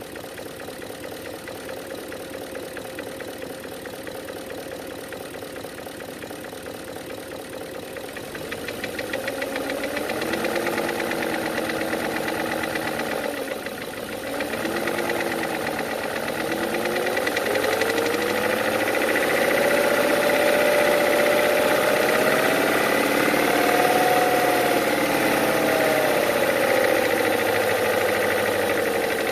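BMW E39's M62 V8 engine running with a rapid, regular knock, first at idle, then revved. The revs rise about a third of the way in, dip briefly, then climb and hold higher before easing down near the end. The owner is unsure whether the knock is lifter knock or piston slap.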